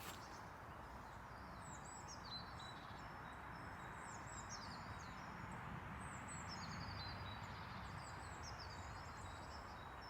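Several wild songbirds singing, a steady stream of short, high chirps and trills overlapping, over a faint, constant hiss of road traffic.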